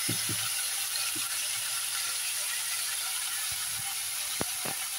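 Beef pieces sizzling steadily in a little hot oil in a nonstick pot, with a few light knocks near the start and near the end.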